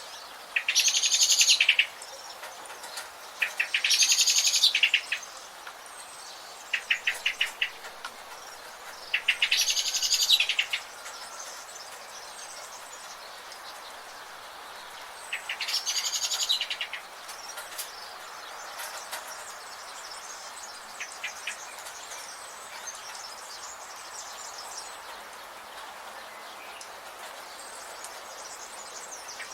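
A bird giving loud, rapid rattling trills, each about a second and a half long, four times in the first half, with a few shorter, fainter rattles in between, over a steady background hiss.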